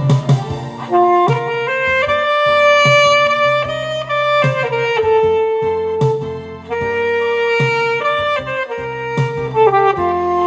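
Alto saxophone playing a slow melody of long held notes over a backing track with a steady beat.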